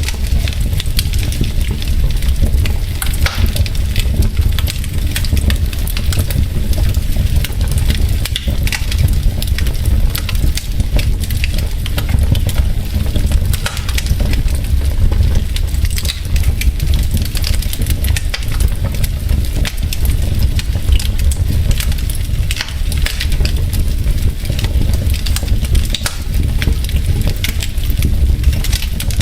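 Wood fire burning in a fireplace: logs crackling with a dense, irregular stream of sharp pops and snaps over a steady low rumble.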